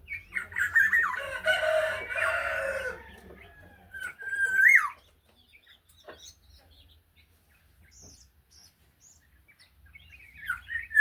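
Black-naped oriole calling. A dense, harsh call runs for about two and a half seconds near the start. About four seconds in comes a short fluted whistle that rises and then drops, and the same whistle returns at the end, with faint chirps in between.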